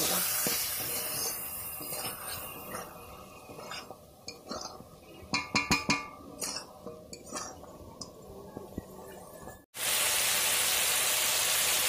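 Chicken pieces sizzling in a hot metal wok (kadai) while they are stirred and fried with spices, with the metal spatula scraping and clinking against the pan, loudest in a run of clinks around the middle. The sizzle fades, breaks off suddenly near the end, then comes back loud and steady.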